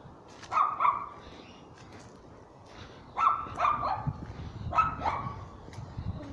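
A dog barking in three short bouts of two or three barks each: about half a second in, near the middle and about a second later. Low thuds run underneath in the second half.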